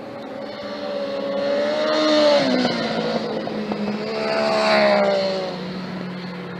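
Two track motorcycles passing at speed one after the other, each engine note swelling, then dropping in pitch as it goes by, the first about two seconds in and the second about five seconds in. A steady lower engine drone runs underneath.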